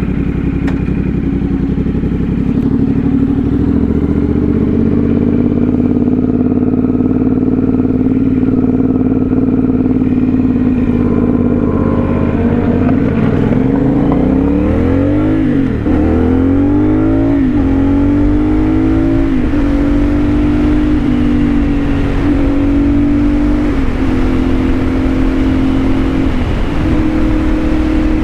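CFMoto 450SS parallel-twin engine with an aftermarket slip-on exhaust, running steadily, then pulling away about twelve seconds in. It climbs in pitch in a series of steps as it shifts up through the gears.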